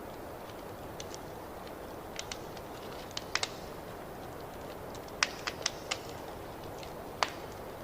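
Wood fire crackling in a fireplace: a steady low hiss with sharp, irregular pops scattered through it, the loudest about five seconds in and again near the end.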